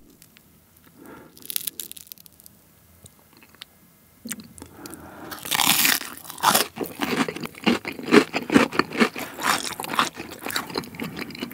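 Crisp crunching and chewing of deep-fried menbosha, shrimp paste fried between slices of bread, bitten close to the microphone. After a few quiet seconds with faint clicks, loud crunches begin about four seconds in and carry on as a quick, irregular run of crackles.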